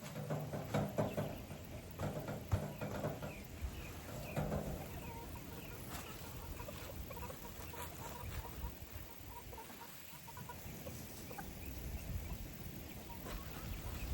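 Hens clucking: a few longer, louder calls in the first five seconds, then a run of short, quick clucks through the middle.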